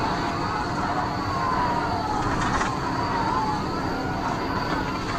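Police car siren wailing, sliding up and down in pitch every second or two, over steady road and engine noise.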